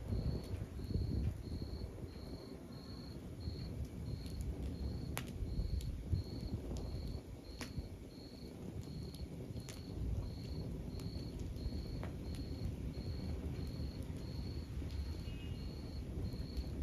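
Log fire burning with a low steady rumble and occasional sharp crackles and pops. A high, evenly spaced chirp repeats about every two-thirds of a second throughout.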